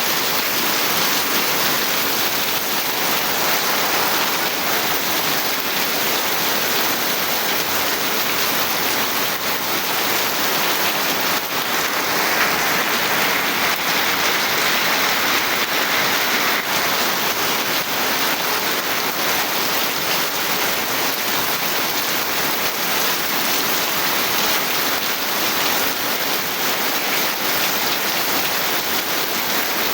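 Steady rain falling, an even continuous hiss that swells slightly for a few seconds near the middle.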